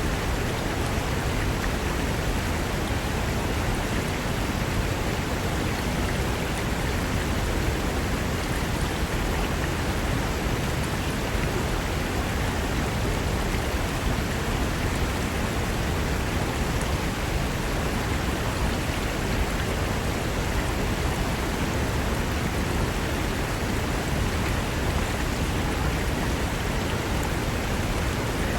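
Fast mountain river rushing over rocks, a steady, even roar of whitewater.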